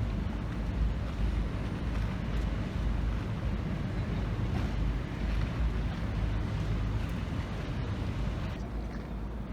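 Wind rumbling on the microphone over a steady low wash of boat and river-water noise, easing slightly near the end.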